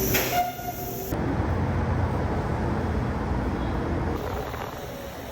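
Inside a moving commuter rail car: a hiss and a short tone in the first second, then the steady rumble of the train running.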